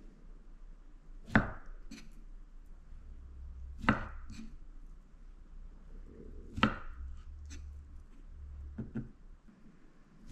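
Kitchen knife chopping down onto a cutting board: three sharp knocks about two and a half seconds apart, with lighter taps in between.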